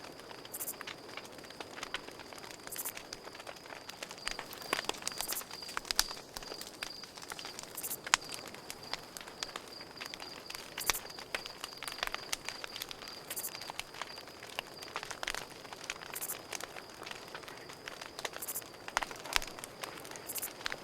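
Campfire crackling and popping in irregular sharp snaps, over a steady high cricket trill.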